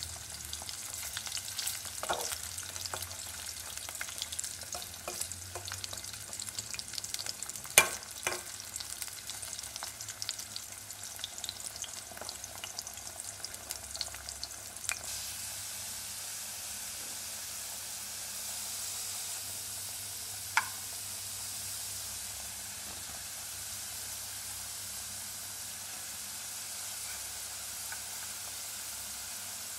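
Potato wedges frying in hot oil in an aluminium pot, a steady sizzle. For the first half a metal spatula stirs them, clicking and scraping against the pan, loudest about eight seconds in. After that the sizzle goes on alone, with one sharp click about twenty seconds in.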